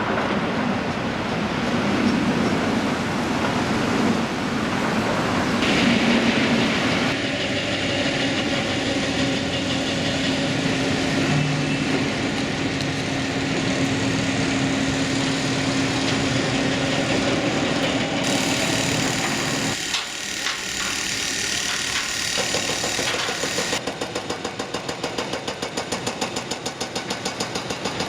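Heavy construction machinery running, an engine drone with a steady hum, changing abruptly several times. In the last few seconds an engine idles with an even rhythmic throb.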